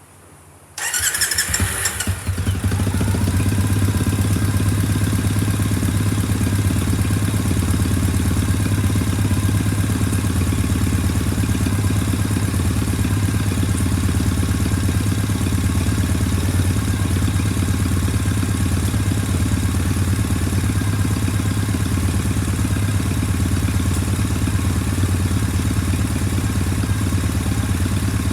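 Triumph Bonneville T100 parallel-twin engine started: the starter cranks for about a second, the engine catches about two seconds in, then it idles steadily.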